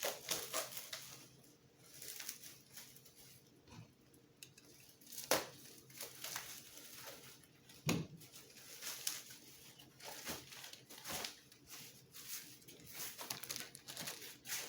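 Plastic packaging crinkling and rustling as parts are handled and unwrapped, broken by a few sharp clicks and knocks of small parts being set down.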